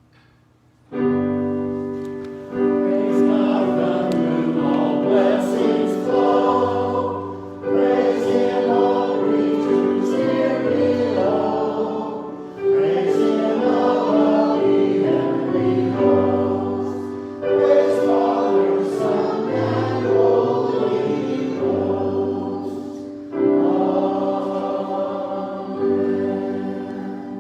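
A choir singing a hymn in long held phrases, beginning about a second in, with short breaks between lines.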